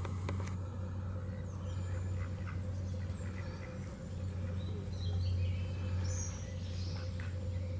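Wild birds calling, short chirps and whistles scattered through, over a steady low rumble.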